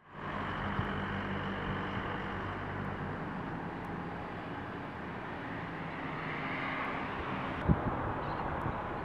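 Aircraft engines running at an airport: a steady wash of engine noise with a low hum beneath it, fading in at the start, with a short knock near the end.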